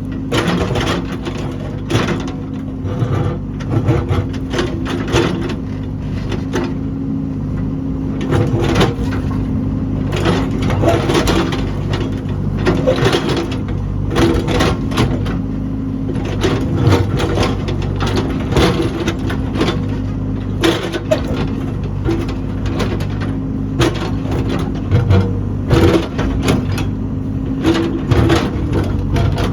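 Heavy construction machine engine running steadily under load, with repeated crunching and cracking knocks throughout, as of material being broken or scraped.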